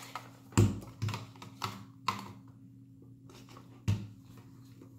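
Hard plastic knocks and clicks as an attachment is forced onto the end of a hair dryer: four sharp knocks in the first two seconds and one more near four seconds in.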